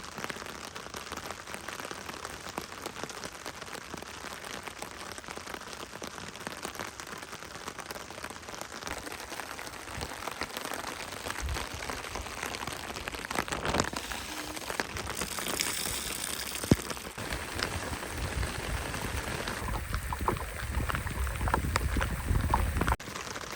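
Heavy rain falling steadily, with scattered sharp ticks of drops; a low rumble joins in over the second half.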